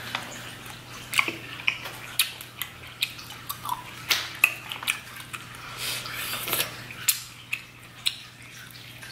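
Close-miked eating sounds: wet chewing and lip-smacking on sausage in Cajun sauce eaten by hand, with irregular sharp smacks and clicks, and sauce-covered fingers picking food out of a glass dish near the end.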